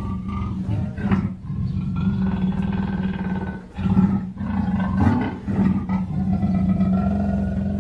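Black panther vocalizing in a continuous low roaring growl, broken by short pauses about a second and a half in and again near the middle.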